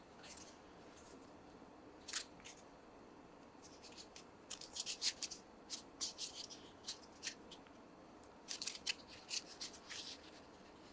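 Packaging being handled and opened by hand: a single sharp click, then two runs of quick crisp clicks and crinkles.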